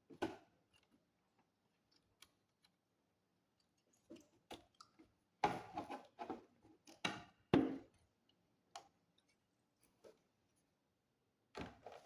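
Scattered sharp clicks, taps and short scrapes of hands and tools working on a computer's plastic casing, busiest in the middle.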